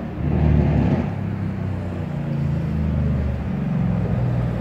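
Mercedes-AMG C63 S Coupé's twin-turbo V8 running at low speed. There is a short swell in the engine note about half a second in, then a low, steady engine sound with small changes in pitch.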